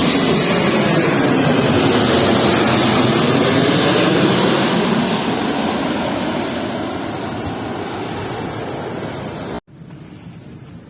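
Jet airliner passing low overhead as it comes in to land, a loud rushing noise that slowly fades away. About a second before the end it cuts off abruptly, leaving a much quieter hiss.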